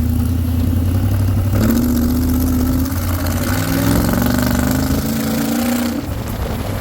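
Mud buggy's freshly swapped-in engine running, then accelerating from about a second and a half in, its pitch climbing in several successive rising pulls before dropping back near the end. It is the new engine's first run down the road.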